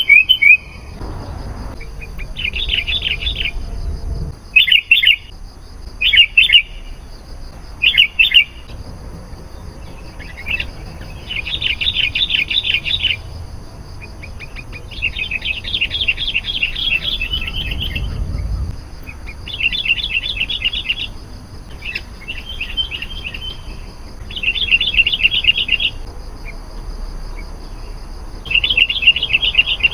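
Sooty-headed bulbul singing: bursts of rapid bubbly notes, some short and some about a second and a half long, repeated every second or two. A steady high buzz runs underneath.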